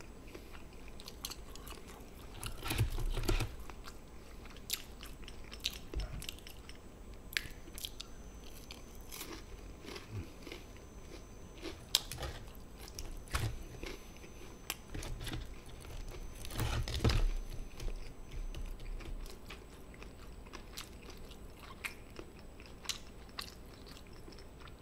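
A person chewing and biting into crisp fried food, with scattered small clicks and two louder crunching bouts, about 3 seconds in and again about 17 seconds in.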